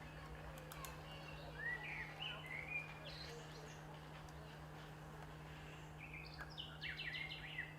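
Small birds chirping, with scattered short calls and a quicker run of notes near the end, over a steady low hum.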